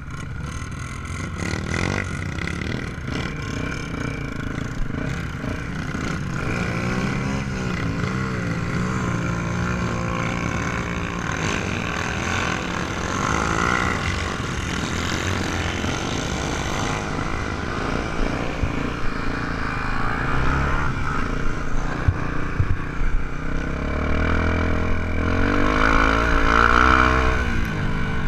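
Trail motorcycle engine running under way, its pitch rising and falling as the throttle opens and closes, getting louder near the end.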